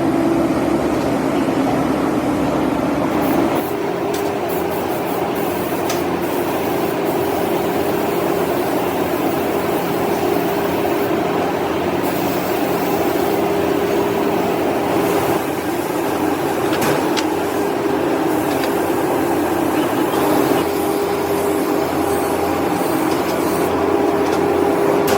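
Workshop machinery running with a steady hum over a noisy clatter, its pitch shifting slightly about three and a half seconds in.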